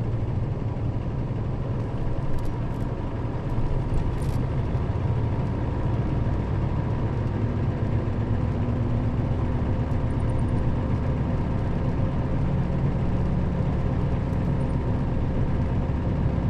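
Nissan Diesel KL-RA552RBN bus's diesel engine running steadily under way, heard from inside the passenger cabin, with a few light clicks or rattles in the first few seconds.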